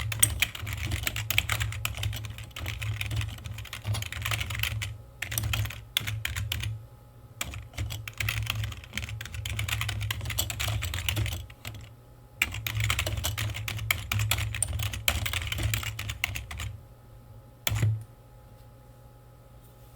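Typing on a computer keyboard: rapid bursts of key clicks broken by short pauses. The typing stops near the end, with one last louder keystroke shortly after.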